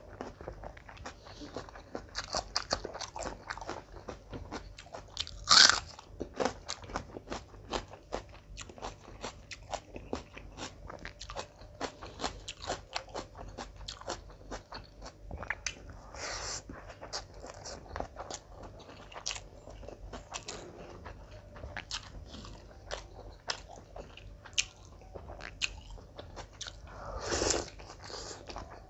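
Close-miked eating sounds of a person chewing mutton biryani by hand: steady chewing with many quick mouth clicks. There is a sharp louder sound about five seconds in and a longer, louder one near the end as he bites into a roast chicken leg.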